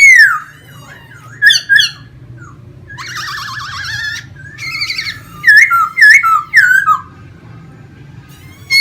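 Laughingthrush singing in loud, clear whistled phrases: a falling whistle at the start, a buzzy warbling stretch about three seconds in, then a quick run of looping notes, with pauses between phrases. A faint steady low hum runs underneath.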